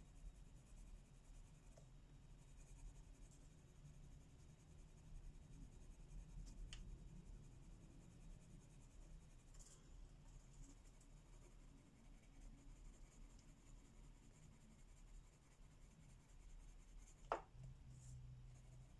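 Faint scratching of colouring strokes on paper, with a low steady hum underneath. A single sharp tap sounds near the end.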